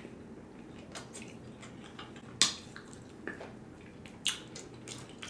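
Close-miked eating sounds: chewing, with a few short wet clicks and taps spaced about a second apart.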